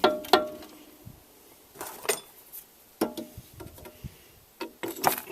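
Scattered metallic clunks and knocks, some ringing briefly, as a car's shock strut assembly is worked up into place in the strut tower. About six separate hits, the loudest at the start and near the end.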